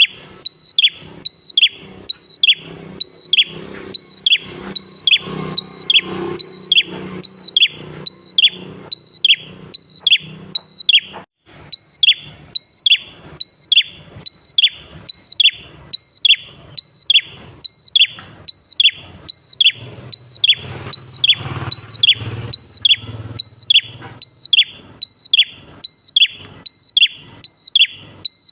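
Prenjak klawu (a prinia) calling over and over: one sharp, quick falling whistle repeated at a metronome-even pace, about three notes every two seconds, with a brief break about eleven seconds in. This is a looped lure recording (pancingan) played to make other prenjak call along.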